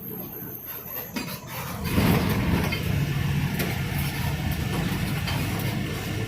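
Bus's diesel engine running, with road and cabin noise. It grows louder about two seconds in as the engine works harder.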